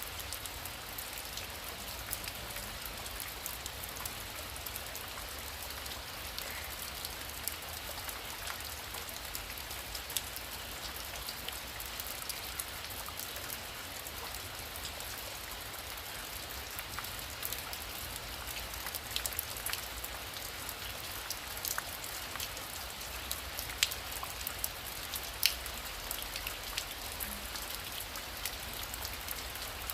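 Heavy rain falling steadily, a dense hiss peppered with sharp ticks of individual drops striking a surface. Near the end two drops hit noticeably louder.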